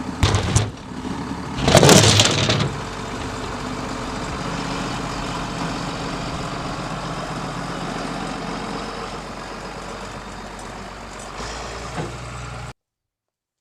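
Engine running steadily, with two loud bursts of noise in the first three seconds; the sound cuts off abruptly near the end.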